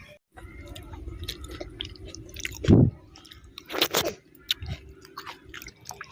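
A person chewing a mouthful of rice and cooked greens close to the microphone, with wet smacking and crunching. A loud low thump comes about two and a half seconds in.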